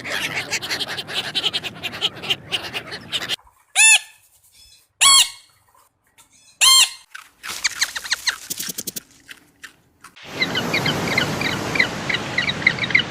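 A succession of different animal calls. Noisy chattering comes first, then three loud, separate calls that rise and fall in pitch, more chatter, and near the end a dense run of many short chirps.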